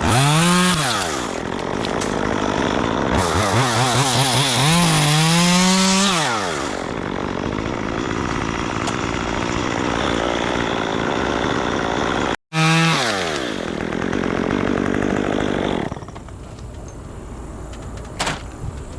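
Chainsaw revving up and down, then running at full throttle through wood with a rough, heavy sound. It winds down again after the middle, and in the last few seconds only a much quieter steady engine sound remains.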